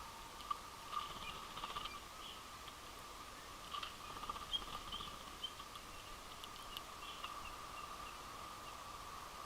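Winter finches at a feeder giving short, scattered call notes, with a few sharp clicks and a faint steady tone underneath.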